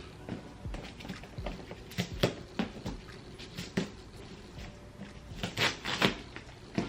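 Purse packaging being handled: irregular light knocks, crinkles and rustles, busiest about two seconds in and again near the end.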